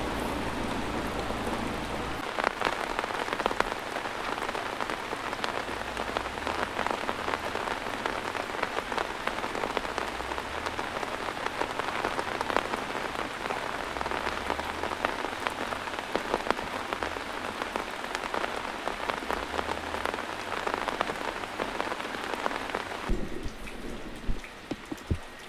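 Heavy rain pouring down, a dense hiss full of drop impacts on a surface. About three-quarters of the way through the hiss thins and a few separate louder drips or knocks stand out.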